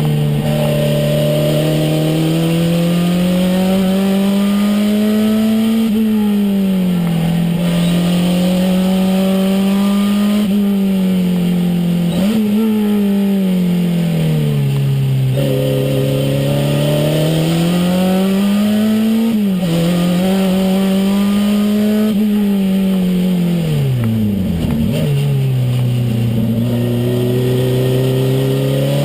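Renault 5 Turbo's turbocharged four-cylinder engine heard from inside the cabin, driven hard: the engine note climbs and falls repeatedly through gear changes and lifts, with a deep dip and recovery a few seconds before the end.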